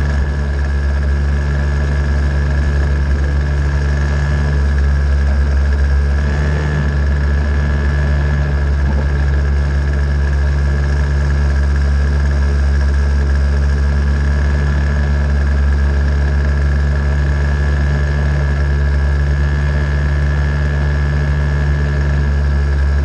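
An engine idling steadily at constant speed, a low hum with no revving.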